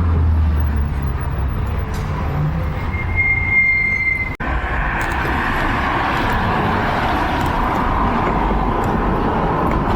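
Traffic on a rain-wet city street: a vehicle's engine rumble fades in the first second, then a steady hiss of tyres and rain. A brief high squeal comes about three seconds in, and the sound cuts out for an instant just after.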